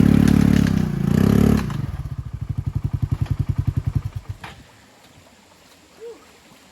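A vehicle engine running at raised revs, dropping to a chugging idle about two seconds in, then shut off a little after four seconds in.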